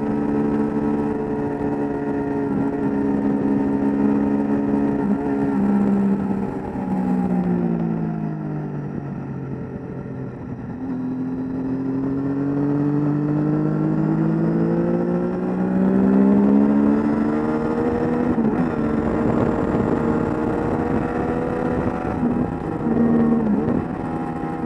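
On-board sound of a sport motorcycle's engine at speed on a track: a few quick drops in pitch at upshifts, then revs fall away for several seconds as it slows for a corner, and climb again steadily as it accelerates out, holding high near the end.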